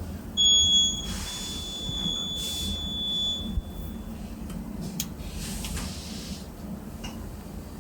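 Factory machinery humming steadily. A long, high electronic beep starts loud about half a second in and fades out after a few seconds. Short bursts of hiss and a sharp click about five seconds in.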